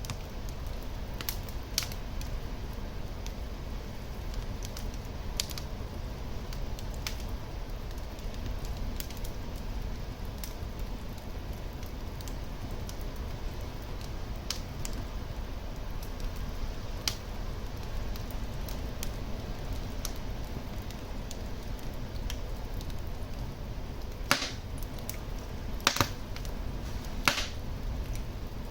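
Wood fire burning in a fireplace: a steady low rumble of flames with scattered crackles, and a few louder pops near the end.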